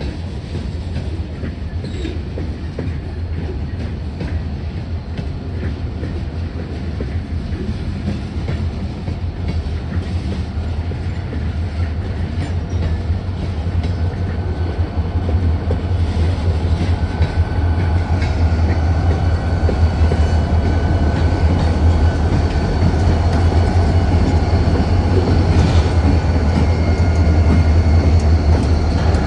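Diesel locomotives of a freight train switching cars in a rail yard, their engines making a steady low drone that grows louder through the second half. A thin high squeal from the wheels joins in about halfway.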